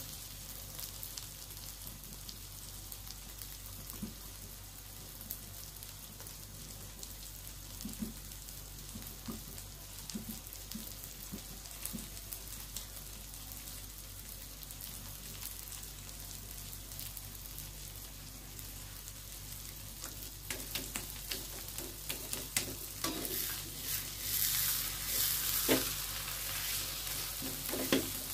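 Egg omelette with chopped vegetables sizzling in hot oil in a wok, a steady frying hiss with occasional sharp clicks. The sizzling grows louder and busier about two-thirds of the way through.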